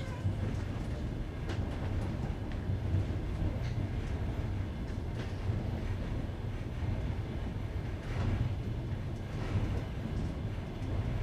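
Passenger train heard from inside the carriage: a steady low rumble of wheels on rail, with a faint clack every second or two as the wheels cross the joints of jointed (non-welded) rail.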